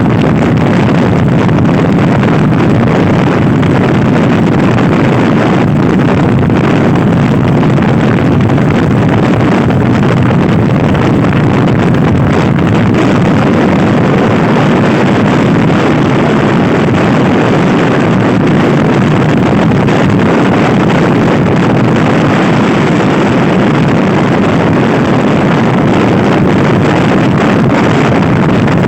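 Loud steady wind noise on the microphone of a Honda Scoopy-i scooter riding at speed, with the scooter running underneath it.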